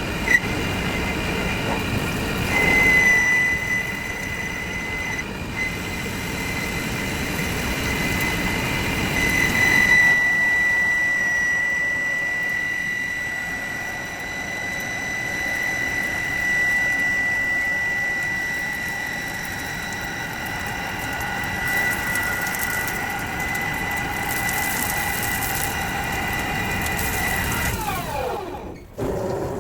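Metalworking machine running in a workshop, with a steady high-pitched whine over machine noise; it winds down in pitch near the end.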